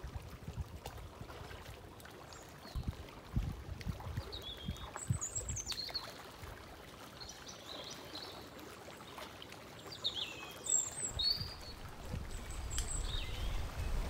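Gentle splashing of someone wading and working in shallow seawater, with a few brief low splashes. Short high bird chirps come and go over it, with a low rumble swelling near the end.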